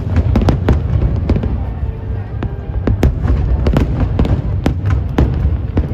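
Aerial fireworks bursting: a rapid, irregular series of sharp bangs, several a second, over a continuous low rumble.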